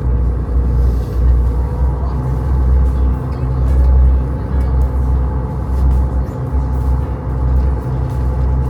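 Cruise boat's engine running steadily, a low rumble that swells and eases with a faint steady hum above it.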